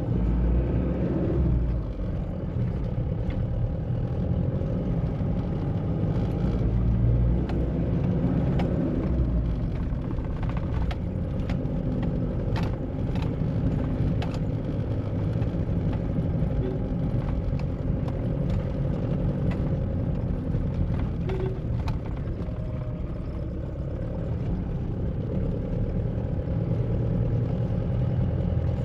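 2013 Mahindra Bolero diesel SUV driving at a steady pace: a low engine and road rumble with a steady hum over it, and light clicks and rattles here and there.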